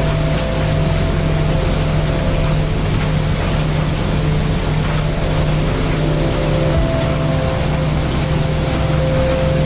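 Heavy rain mixed with brown noise, a steady dense hiss over a deep rumble, with a few faint steady hum tones underneath.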